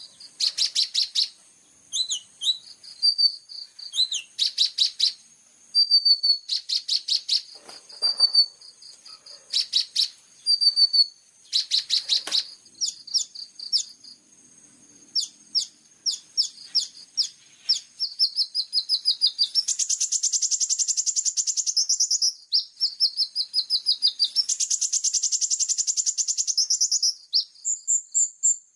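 A small songbird singing a fast, varied song of high chirps, short whistles and trills, with two long, rapid, buzzy trills in the second half, each lasting a few seconds.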